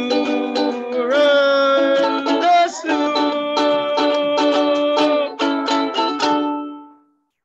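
Music on a plucked string instrument, strummed in quick repeated strokes with chords ringing, and a held note gliding over it in the middle. The last chord rings out and fades away about seven seconds in.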